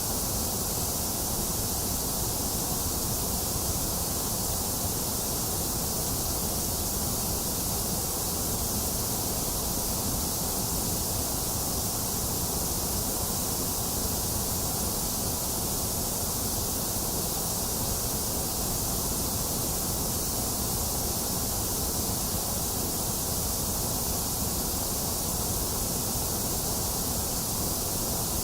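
Steady, unbroken white noise: an even hiss that never changes in level or character.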